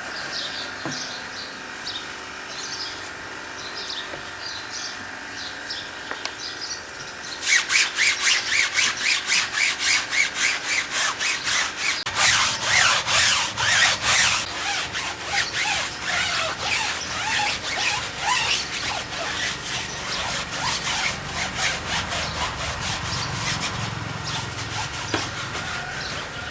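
Fast back-and-forth scrubbing strokes, about three a second, start about seven seconds in and go on to the end, loudest in the middle. Before them there are only faint bird chirps.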